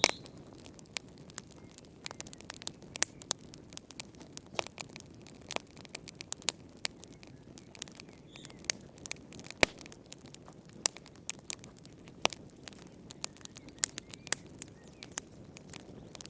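Wood fire crackling in a fireplace: irregular sharp pops and snaps over a low steady hiss of flames, with a louder pop at the start and another about halfway through.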